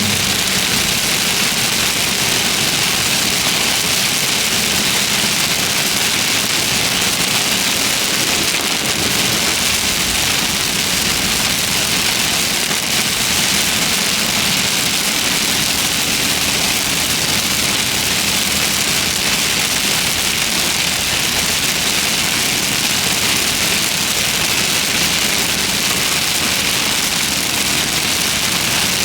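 Steady hiss of heavy rain on a car, with the car's engine running underneath.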